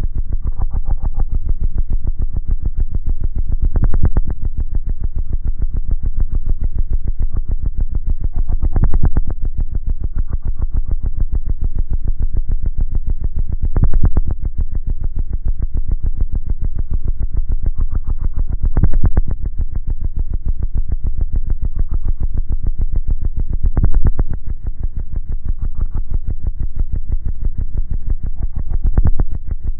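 Two 18-inch Ultra Audio Lord of Bass subwoofers playing synthesizer-heavy music. Deep bass dominates, swelling louder about every five seconds.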